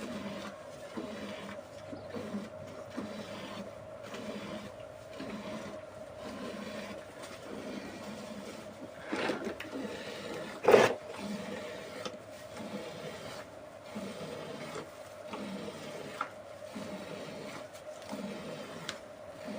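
Cow being milked: streams of milk squirt into a pail in an even rhythm of about one and a half strokes a second, with one sharp knock about eleven seconds in.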